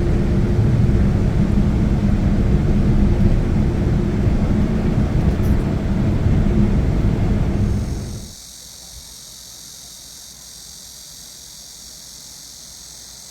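Road and engine noise inside a moving Hyundai Solati van, a steady low rumble that cuts off abruptly about eight seconds in. After the cut, insects buzz steadily at a high pitch.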